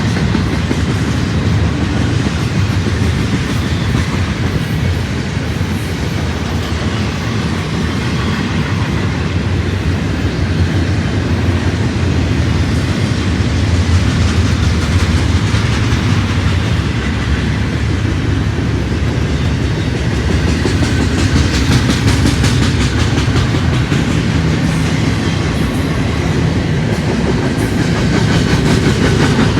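Train cars rolling past close by, with a steady loud rumble and wheels clacking over the rail joints.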